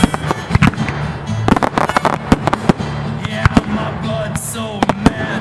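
Aerial fireworks going off: many sharp bangs and crackles in quick succession, with music playing underneath.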